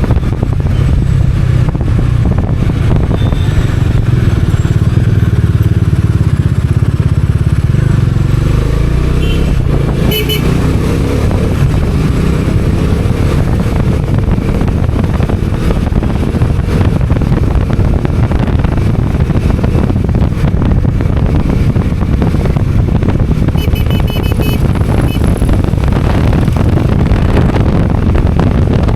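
Bajaj Dominar 400's single-cylinder engine running under way in traffic, loud and low for the first several seconds, then mixed with a steady rush of road and wind noise. Two short bursts of high beeping cut in, about ten seconds in and again later.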